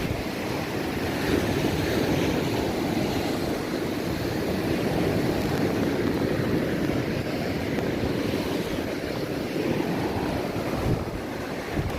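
Wind rushing over the microphone with surf on the beach, a steady, unbroken rushing noise.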